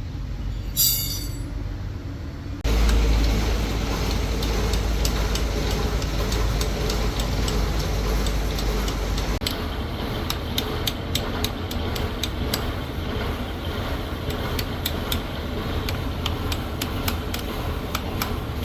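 A short metallic clink, then a motor-driven machine starts about three seconds in and runs steadily with a strong low hum. Later the hum drops away and many sharp clicks and taps continue over the running noise.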